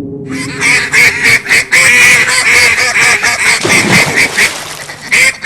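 A flock of geese honking, many short calls overlapping, starting abruptly a moment in.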